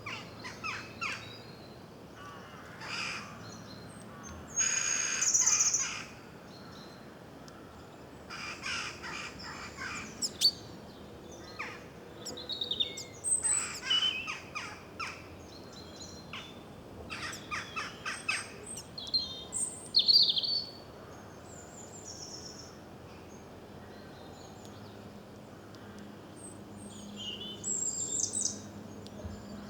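Wild birds calling: scattered chirps mixed with harsher, noisier calls, the loudest lasting about a second roughly five seconds in and another near twenty seconds.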